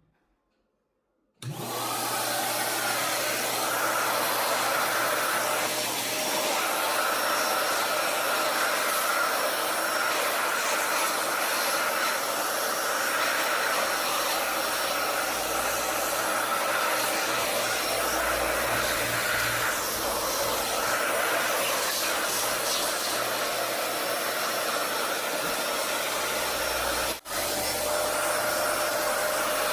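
Electric vacuum cleaner switched on about a second and a half in and running steadily, with a brief drop-out near the end.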